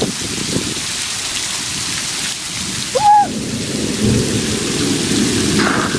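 Heavy rain pouring steadily, with a low rumble underneath in the second half. A short high-pitched call cuts through about three seconds in.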